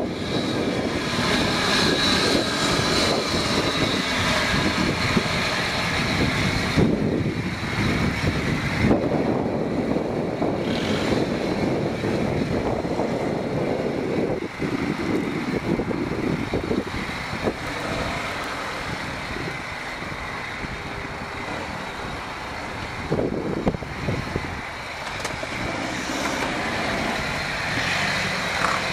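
Off-road 4x4 engines running under load as the vehicles crawl over rough, muddy ground, mostly a Jeep Cherokee XJ, its loudness rising and falling.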